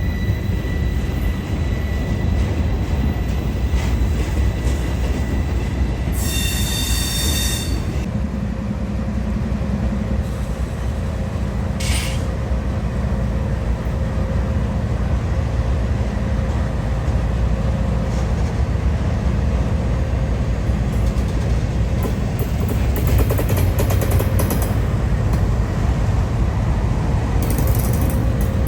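A freight train rolling along the rails with a steady low rumble. Its wheels squeal for about a second and a half about six seconds in, and again briefly near twelve seconds.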